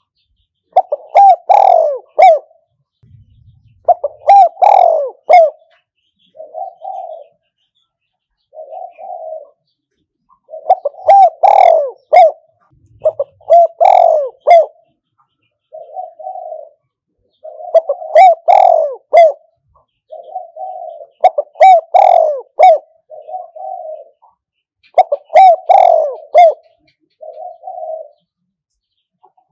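Spotted dove cooing: a male's loud multi-note coo phrases come every three to four seconds, with softer single coos between them. This is the kind of call used as a decoy to lure wild doves to a trap.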